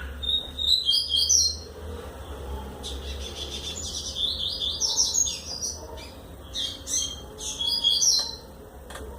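A double-collared seedeater (coleiro) singing: several phrases of fast, high warbled notes, the longest from about three to five and a half seconds in.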